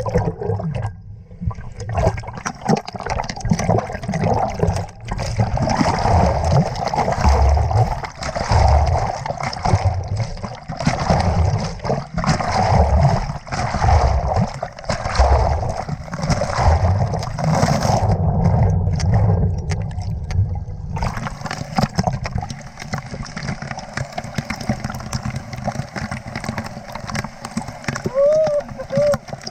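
Water splashing and gurgling close to the microphone, in uneven heavy surges about once a second, settling into a steadier rush about two-thirds of the way through.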